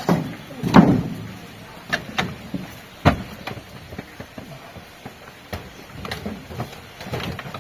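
A series of irregular knocks and thumps, the loudest about a second in and another sharp one about three seconds in, with smaller knocks between.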